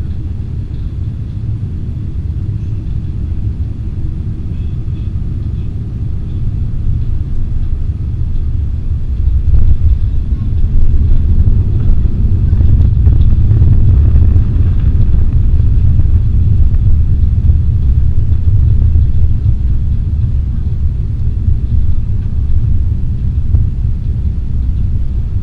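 Airbus A320-216 cabin noise on arrival: a steady low rumble that swells sharply about nine to ten seconds in and stays loud for about ten seconds before easing slightly, as on touchdown and the landing roll.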